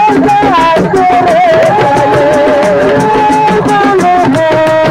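Live Senegalese assiko band music: a held, wavering melodic lead line over steady, fast drum percussion.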